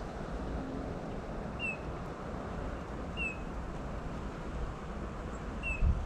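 A small bird calling: a single short, high note that falls slightly in pitch, repeated three times about a second and a half apart, over steady low outdoor background noise.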